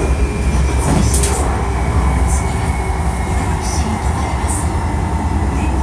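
Hankyu 1300 series electric train running along the line, heard from inside the car: a steady low rumble of wheels on rail with a faint steady whine and brief hissy flurries now and then.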